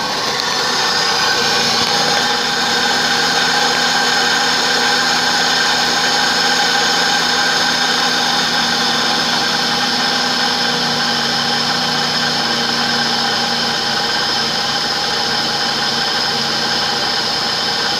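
1998 Buick LeSabre's 3.8-litre V6 idling steadily.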